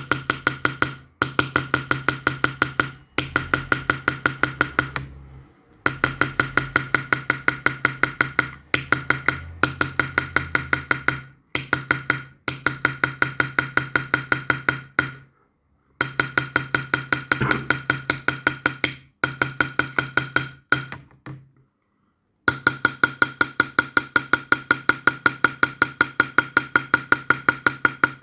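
Rapid light hammer taps on a metal punch, several a second, as silver is worked by hand. The taps come in bursts of one to a few seconds with short pauses between, and there is a faint ringing over each burst.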